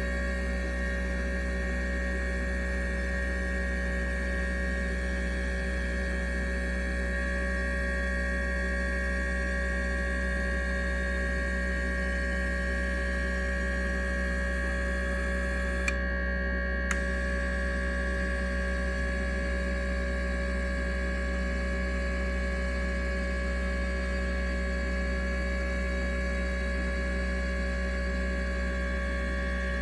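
Steady electrical hum made of several unchanging tones over a deep low drone, with two faint clicks about a second apart just past the middle.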